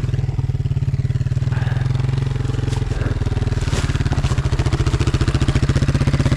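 Enduro motorcycle engine idling steadily with an even, rapid pulse.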